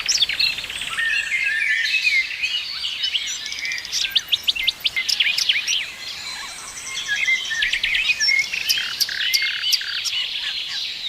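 Several songbirds singing and chirping together: overlapping whistles, trills and quick chirps, with no one bird standing out.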